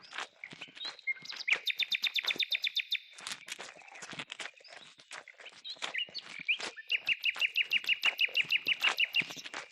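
A bird sings two trills of rapid repeated notes, the first about one and a half seconds in and the second about seven seconds in, each lasting a couple of seconds. Irregular clicks and knocks go on throughout.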